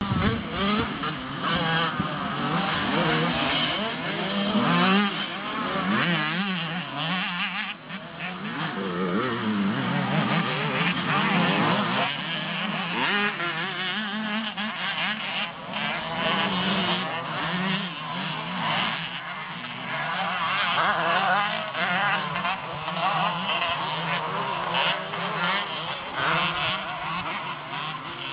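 Motocross bike engines revving, the pitch climbing and dropping over and over.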